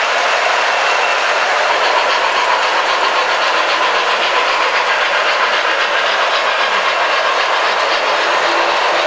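O gauge model trains running on three-rail track: a steady, even clatter of wheels and electric motors.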